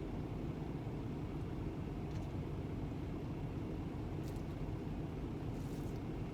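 Steady low rumble of an idling diesel truck engine, with a few faint small clicks.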